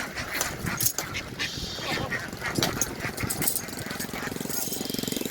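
A flock of ducks quacking and calling over scattered knocks and clatter, with a rapid, even pulsing setting in near the end.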